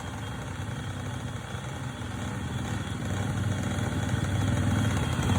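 Motorcycle engine running steadily and gradually getting louder.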